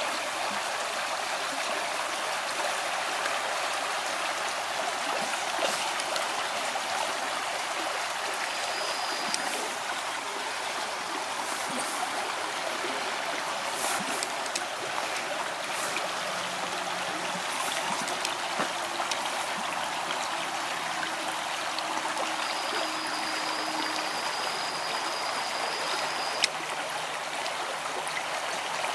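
Small river flowing over rocks: a steady rush of running water. A single sharp click comes near the end.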